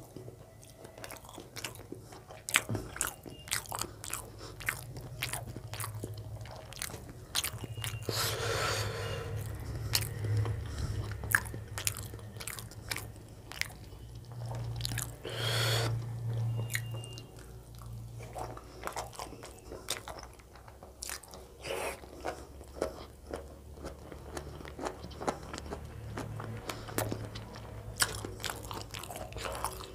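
Close-miked eating ASMR: a man chewing roti and chicken gizzard curry, with many wet mouth clicks and smacks. Twice, about eight and fifteen seconds in, a longer, noisier mouth sound stands out, over a low steady hum.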